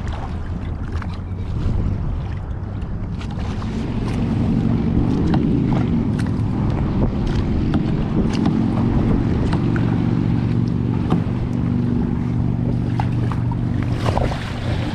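Wind buffeting the microphone over water on a kayak, a steady low rumble with light knocks and splashes scattered through it. A steady low hum grows in about four seconds in and holds.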